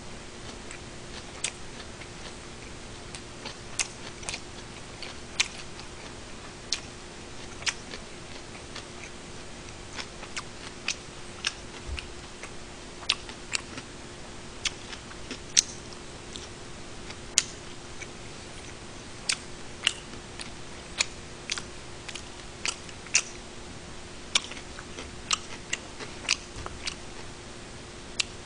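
A person chewing sundae (Korean blood sausage) and gimbap close to the microphone, with irregular sharp wet mouth clicks, roughly one or two a second, over a steady low hum.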